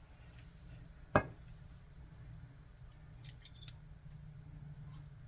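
A single sharp metallic clink about a second in, then a few light clicks, from small tools and carburetor parts being handled on a workbench, over a low steady hum.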